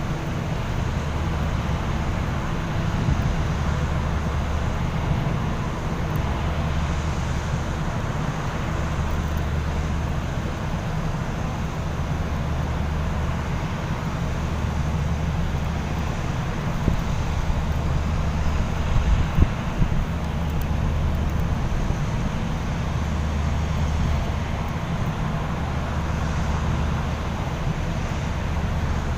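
Low, steady engine rumble that swells and eases every three to four seconds, over a broad noise haze with some wind on the microphone.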